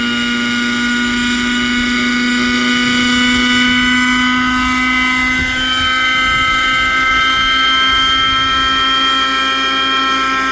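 Nitro glow-fuel engine of a 1980s-era radio-controlled helicopter running steadily at a high, buzzing pitch, which rises a little about halfway through.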